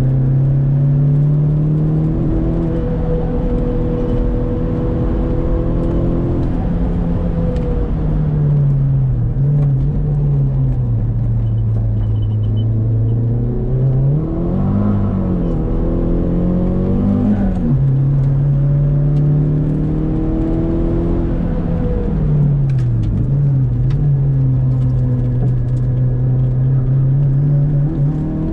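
Saab 9-3 Aero's turbocharged four-cylinder engine heard from inside the cabin, pulling hard at steady high revs on a race track. Its pitch drops and rises again three times, about a third of the way in, in the middle and two-thirds through, as the driver lifts and changes gear for corners.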